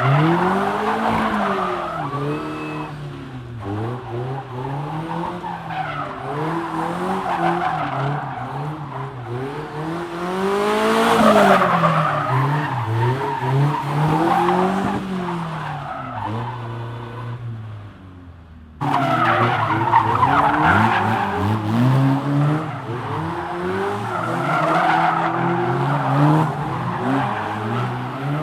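Rally car engines at full speed on a track, revving up and dropping back again and again through gear changes and lifts. The sound cuts off abruptly about two-thirds of the way through and resumes on another pass.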